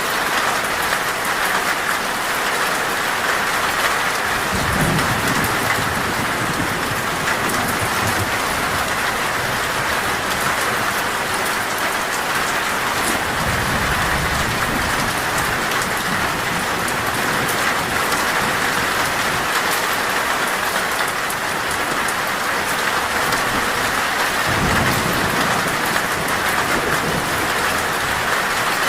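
Heavy rain drumming steadily on a metal roof, with low rolls of thunder rumbling three times: about five seconds in, near the middle, and again near the end.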